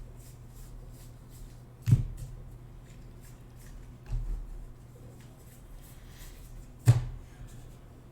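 Hands handling and sorting trading cards, with faint rustling and ticking and two sharp knocks, about two seconds in and again near seven seconds, plus a duller thump between them, over a steady low hum.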